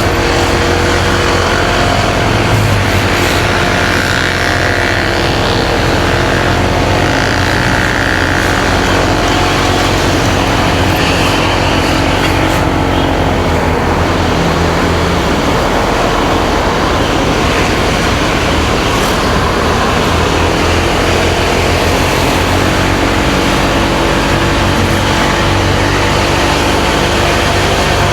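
Motorcycle engine running under way with wind rushing over the microphone; the engine's pitch rises and falls as the bike speeds up and slows.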